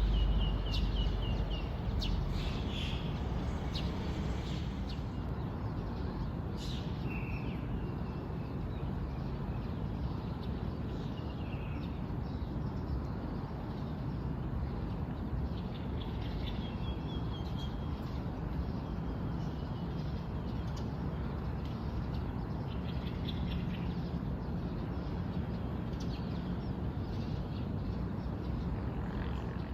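Birds chirping and calling at intervals, with short trills at the start, over a steady low background noise.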